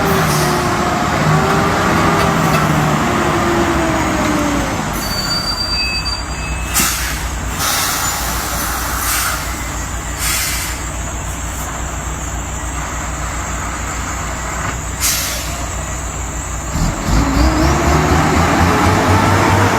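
Heavy truck's diesel engine, its pitch rising and falling for the first few seconds, then a steady hiss broken by several short, sharp bursts of air from the air brakes. The engine's pitch rises again near the end.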